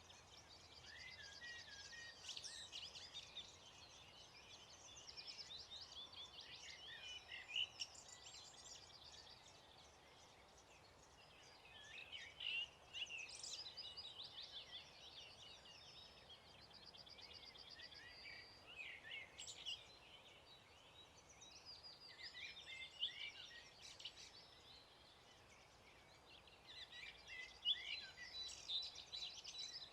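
Faint dawn chorus of several songbirds, their quick chirps and rapid trills overlapping and coming in bouts every few seconds over a soft outdoor background hiss.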